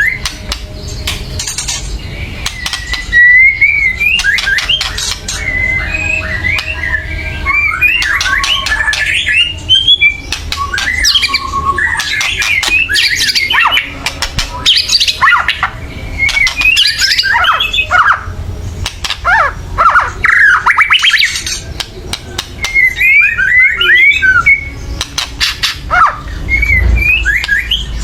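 White-rumped shama (murai batu) giving harsh, rattling 'kretek' calls mixed with quick whistled notes that slide up and down, in a loud, almost unbroken run. This agitated, aggressive calling is the kind used to provoke other shamas into singing.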